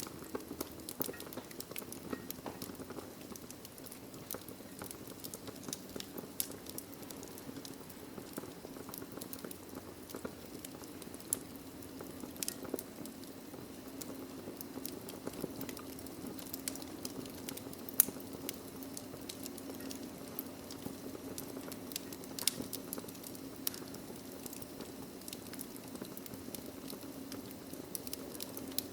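Wood fire burning in a fireplace: a steady low hiss and rumble of flames with irregular crackles and pops from the logs, one sharper snap about eighteen seconds in.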